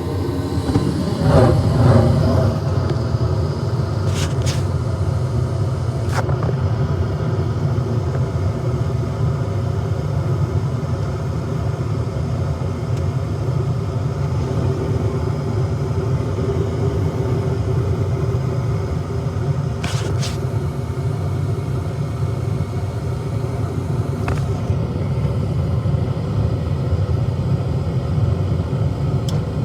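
Comfortmaker gas furnace running with a steady low rumble that swells briefly about a second in, with a few sharp ticks now and then.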